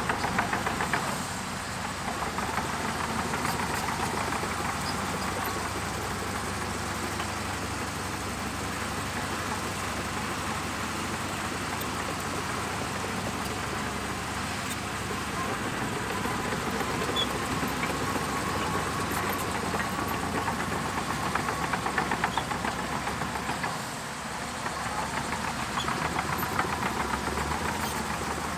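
Shantui DH17C2 bulldozer's diesel engine running steadily at work, with a faint whine that rises and falls. The engine briefly eases off twice, about two seconds in and near the end.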